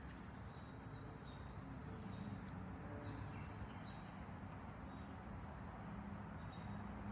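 Faint, steady outdoor ambience with insects trilling continuously over a low background rumble.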